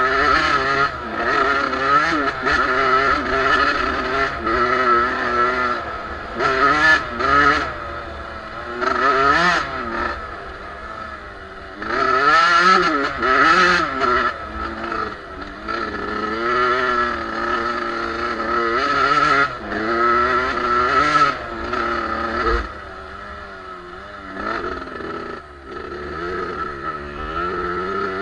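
Suzuki two-stroke motocross bike engine being ridden hard off-road, its pitch rising and falling over and over as the throttle is opened and closed through the gears. It settles to lower, quieter revs for a few seconds near the end.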